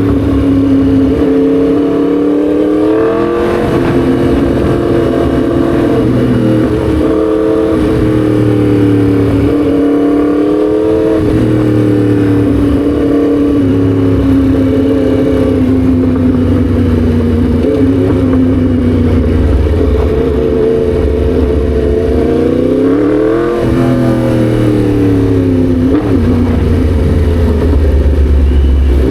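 Yamaha MT-10 SP's crossplane inline-four engine running under way, its note rising and falling with the throttle, with a sharp climb in revs about three-quarters of the way through.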